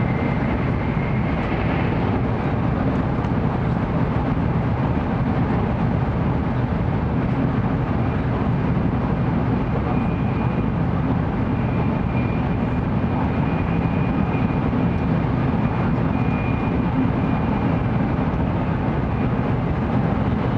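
Steady running noise inside the cabin of a 700 series Shinkansen train travelling at speed: a dense low rumble from the wheels and track, with a faint steady high whine above it in the second half.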